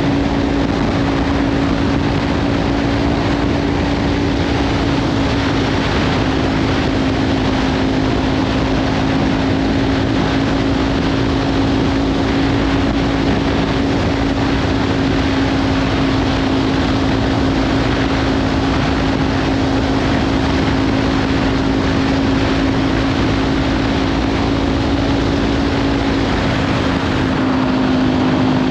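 Kawasaki Ninja 500 parallel-twin engine through a Leovince slip-on exhaust, cruising at a steady speed, with heavy wind noise on the microphone. The engine note holds steady and drops slightly near the end as the bike eases off.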